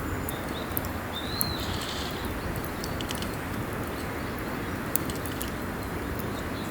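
Campfire crackling with scattered sharp pops over a steady rushing background. A short bird call comes about a second and a half in.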